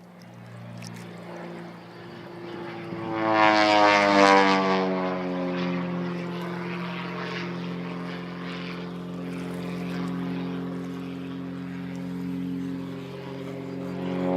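Piston-engined propeller aircraft making a low pass overhead. The engine note is loudest about four seconds in and drops in pitch as the aircraft goes by, then settles into a steady drone. Another pass builds up near the end.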